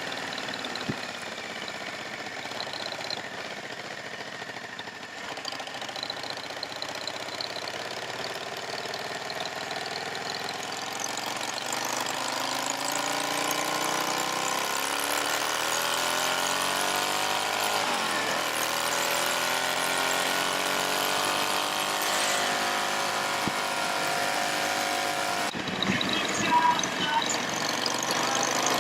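Motorcycle engine running under way, its pitch rising and falling slowly as the speed changes, with a whine over it. The sound changes abruptly near the end, with a few knocks.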